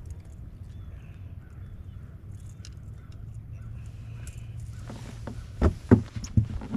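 Handling noise as a crankbait is worked free of a landing net: faint scratching over a low steady rumble, then a run of sharp knocks and rustles near the end.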